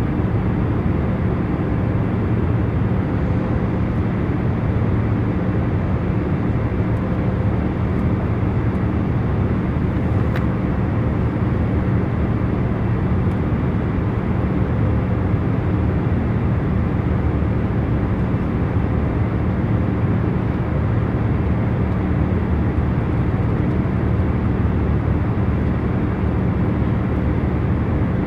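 Airliner cabin noise in cruising flight: a steady, even rumble and hiss of engines and airflow, with faint constant humming tones beneath it.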